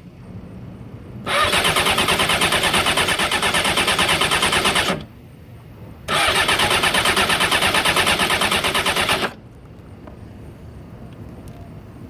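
2001 Honda CBR600 F4i inline-four being cranked on its electric starter in two bursts of a few seconds each, with a fast, even pulsing, each cut off suddenly without the engine catching: a no-start, where it tries to start but won't run.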